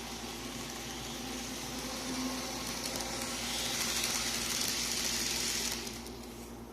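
Model train running along the track under a PWM controller, a steady running rumble with a hum underneath. It grows louder for a couple of seconds as the train comes close, then drops off quickly near the end as it moves away.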